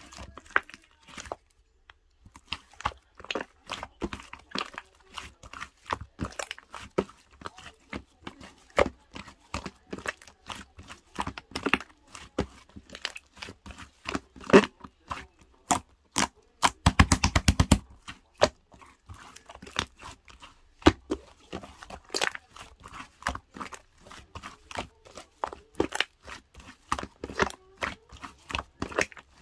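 Scoop scraping and digging through hard-frozen mint chocolate chip ice cream: a run of crunchy, crackling scrapes and clicks, with a quick rattling run about seventeen seconds in.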